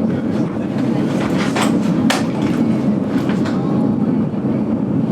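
GoldenPass Belle Époque train running on the rails, heard from inside the carriage: a steady rumble with a few sharp clicks from the wheels, the loudest about two seconds in.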